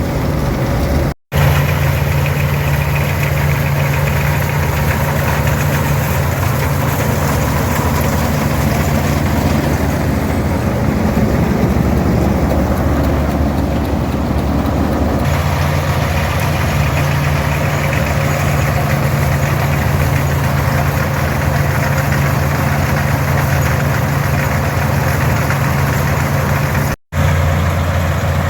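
Farmall 460 tractor's six-cylinder 282 diesel engine running steadily under load, pulling a pull-type combine, with the combine's threshing machinery running along with it. The sound cuts out for an instant twice, about a second in and near the end.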